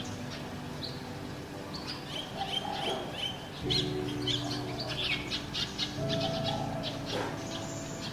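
Small birds chirping and trilling, with a fast run of notes about halfway through, over soft sustained background music chords.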